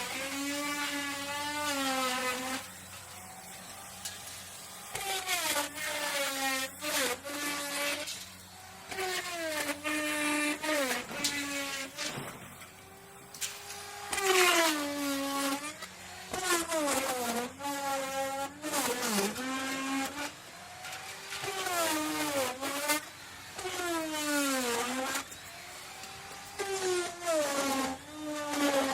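Small electric motor of a power tool whining, its pitch dropping and rising again over and over in stretches of one to three seconds.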